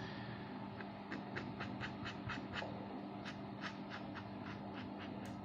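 Paintbrush working acrylic paint onto a small wooden bird: a string of faint, irregular short ticks and scratches, about two or three a second, over a steady low hum.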